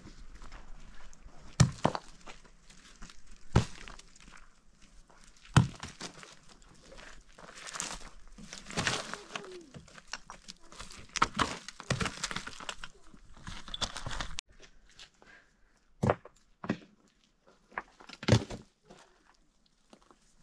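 Handwork noises: three sharp knocks about two seconds apart, then a stretch of rustling and scraping, then a few more scattered knocks.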